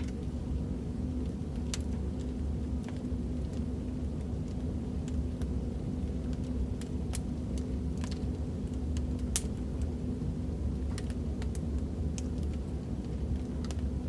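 Recorded fireplace: a wood fire burning with a steady low rumble and irregular sharp crackles and pops.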